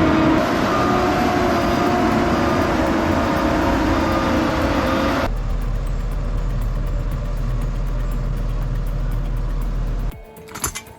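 Heavy machine engine running steadily. About five seconds in it cuts abruptly to a deeper, steady rumble, and near the end it drops to a much quieter scene with a few clicks.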